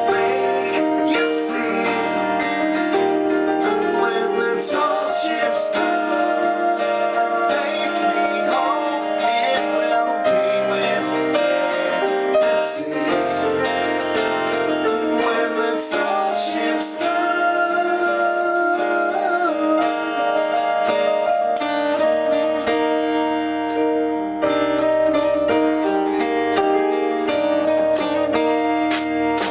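Rock band playing live in rehearsal: guitar, keyboards, bass and drums, with singing.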